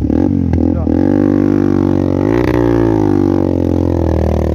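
Motorcycle engine revved hard and held at high revs under load, its pitch wavering and dipping briefly about halfway, as the rider tries to power the bike out where it is stuck on a muddy, broken road.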